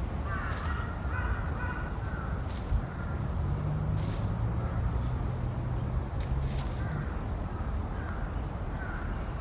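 Wild birds calling: several groups of harsh, falling calls, with short, thin, high notes every second or two. A faint low hum runs through the middle.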